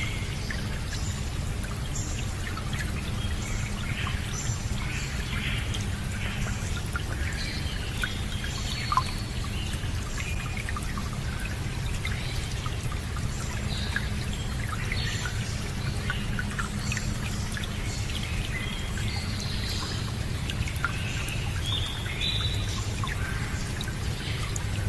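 Water running steadily with a low, even rush and trickle, while small birds chirp on and off above it.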